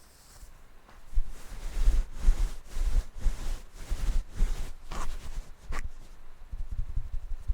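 Scratching strokes across a microphone, several a second, each carrying a heavy low rumble of handling noise, starting about a second in. Near the end it changes to quick, soft, low taps on the microphone.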